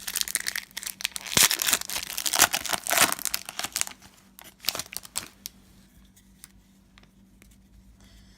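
A trading card pack wrapper being torn open and crinkled by hand, with dense crackling for about four seconds, then a few light rustles as it stops.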